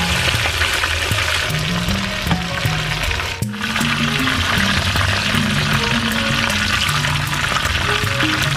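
Chicken pieces frying in hot oil in a cast-iron wok: a steady sizzle full of fine crackles. Background music with a low stepping melody plays along with it.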